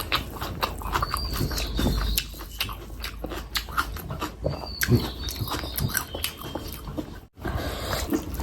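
Close-miked eating sounds of fish curry and rice: wet chewing with smacking and sticky mouth clicks. The sound drops out for a split second about seven seconds in.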